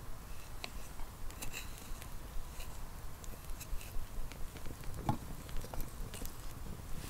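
Wood fire crackling, with scattered small snaps and pops and a heavier thump about five seconds in.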